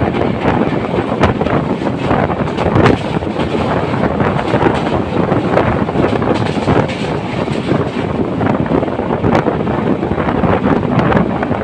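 A passenger train running at speed, giving a steady loud rumble and rattle with many irregular short knocks, and wind buffeting the microphone.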